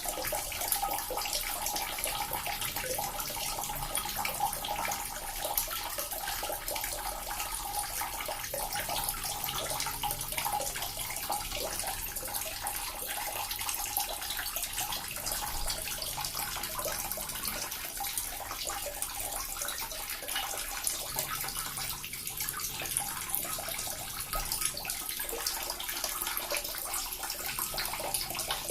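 Small water fountain running, a steady splashing trickle of falling water with no pauses.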